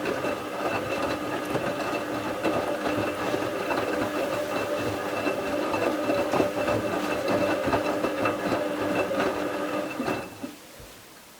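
Bauknecht WA 7778 W washing machine's brushed motor turning the drum with towels tumbling, a steady whine with rattles and knocks, its drum bearing already worn. The motor stops about ten seconds in, pausing the drum.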